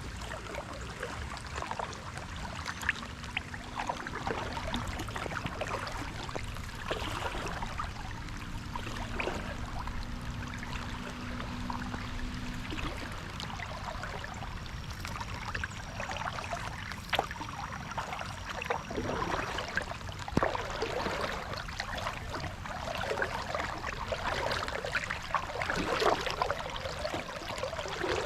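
Kayak paddle dipping and splashing, with water dripping off the blade and light rain pattering on the water.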